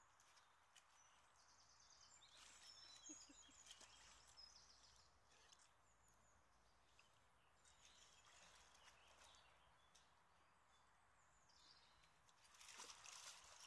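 Near silence: faint birdsong in short, repeated high phrases, and near the end faint splashing as a dog moves its head in shallow water.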